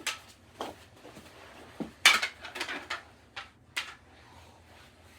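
Plastic mini hockey sticks and ball knocking and clattering in a knee hockey game: several sharp, irregular knocks, the loudest about two seconds in.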